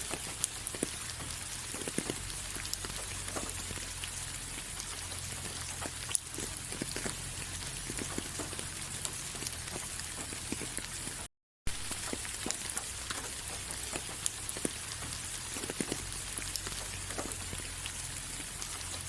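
Steady rain, a constant hiss with individual drops ticking irregularly on a surface. The sound cuts out completely for a split second a little past halfway, then resumes.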